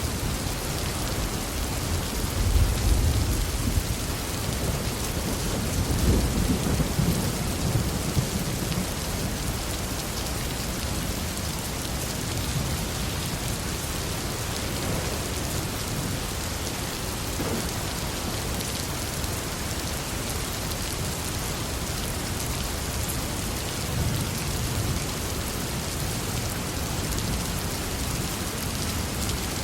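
Heavy rain falling steadily, with rolls of thunder rumbling about two and six seconds in and a fainter rumble near the end.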